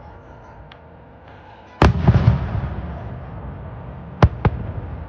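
Aerial fireworks shells bursting: one heavy boom about two seconds in with a long rolling echo off the hills around the lake, then two sharper bangs in quick succession near the end.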